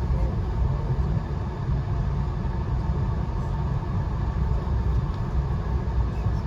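Steady low rumble of a Via Rail passenger train running along the track, heard from inside the coach.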